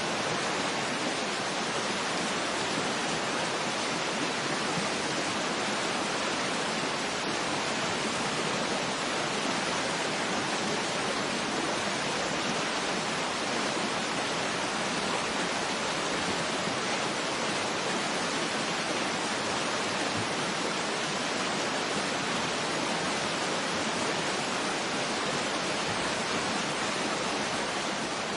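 Waterfall rushing: a steady, unbroken hiss of falling water that holds the same level throughout.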